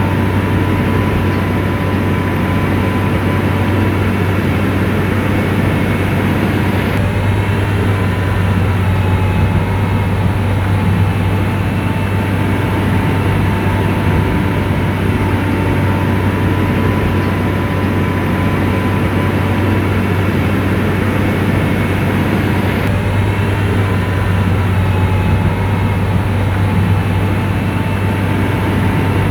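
An SDLG motor grader's diesel engine running steadily under load, a constant low drone with a faint whine above it.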